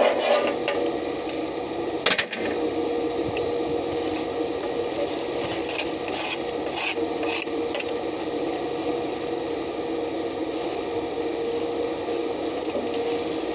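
Stick-welding arc crackling steadily, with a steady hum underneath. A single sharp metallic clank about two seconds in.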